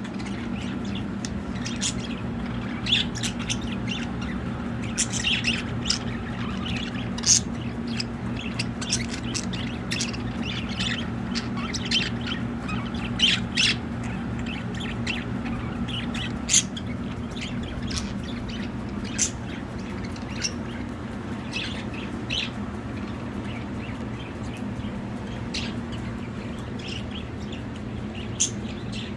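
Pet budgerigars chirping and squawking in many short, sharp calls, over a steady low hum.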